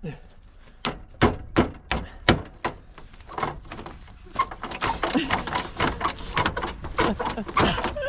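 A quick series of about seven sharp knocks, roughly three a second, then voices talking over a jumble of clattering noise.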